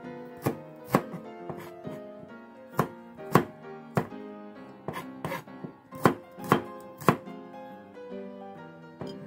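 Kitchen knife slicing shallots on a plastic cutting board: sharp knocks of the blade hitting the board at irregular intervals, about one to two a second, over soft background music.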